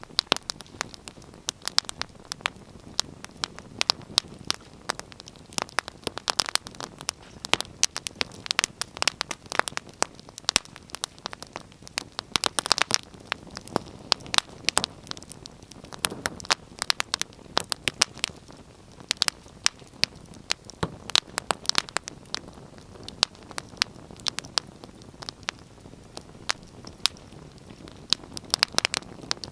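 Wood fire crackling: irregular sharp pops and snaps of varying loudness over a soft steady hiss of burning.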